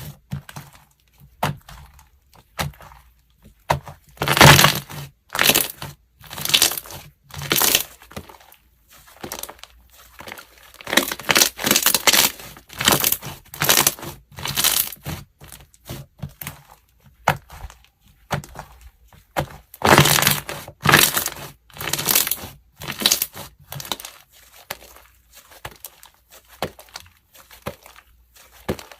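Slime being squeezed and pressed by hand, making crackling, crunching sounds in irregular bursts about once a second.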